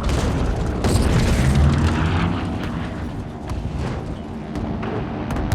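Film sound effects of explosions: a deep booming rumble that swells about a second in, with many sharp cracks over it throughout.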